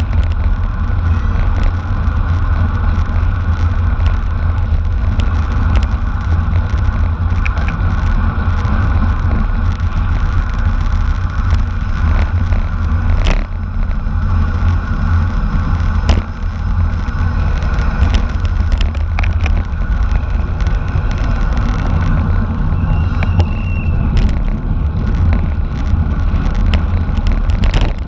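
Wind rumbling on the microphone over steady tyre and road noise from a racing bicycle, with a few sharp clicks.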